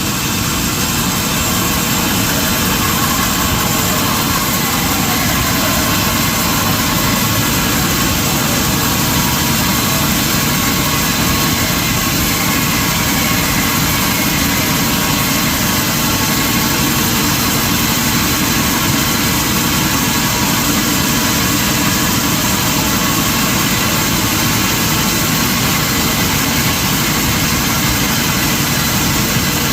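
Sawmill machinery running steadily, a loud engine-like drone with a dense, even noise and no break. A faint pitch glides briefly about three seconds in and again near the middle.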